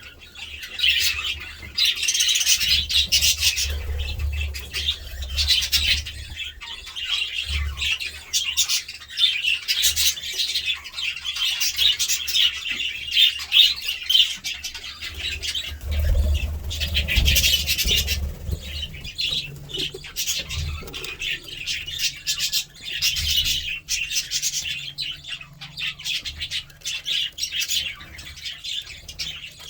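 Budgerigars chattering and warbling nonstop, with quick chirps and harsh squawks mixed in. A low rumble comes and goes underneath.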